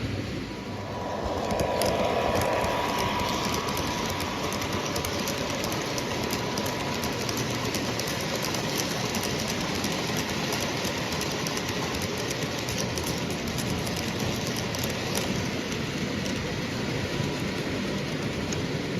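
Model train running on a layout track: a steady rumble of wheels with fast, irregular clicking over the rail joints and a thin steady whine. It grows louder about a second and a half in, as if the train is coming closer.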